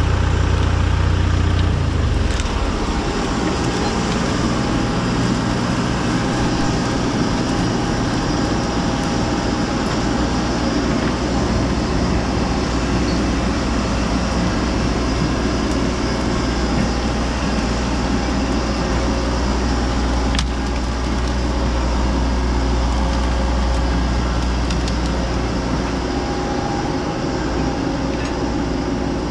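Heavy diesel machinery running steadily, its engine note shifting about two seconds in.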